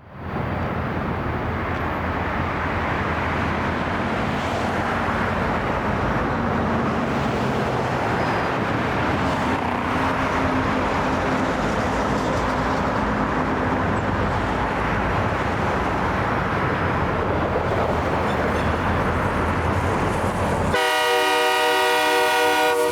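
Diesel freight locomotive running on the branch line, a steady rumble. About 21 seconds in, its horn sounds a loud multi-note chord, blown for a private crossing.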